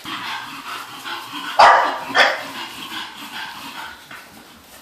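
English bulldog puppy barking: two loud barks about half a second apart, a second and a half in, over quieter background sounds.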